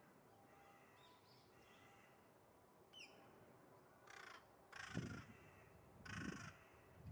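Rose-ringed parakeet calls: one short call about three seconds in, then three harsh calls over the next two and a half seconds.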